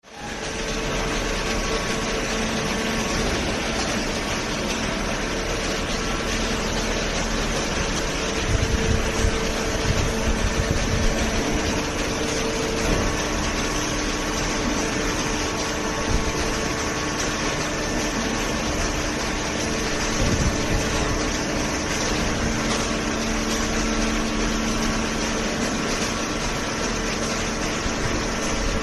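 Hydraulic power unit of a double cylinder vertical carton baler running steadily, an electric motor and pump humming with a few louder rumbles near a third of the way in.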